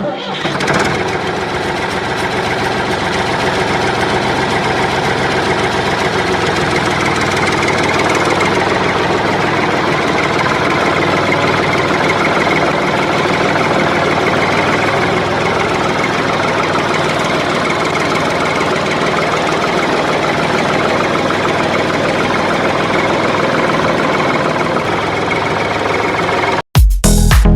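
A motor running steadily at an even pitch and level, then cutting off abruptly near the end.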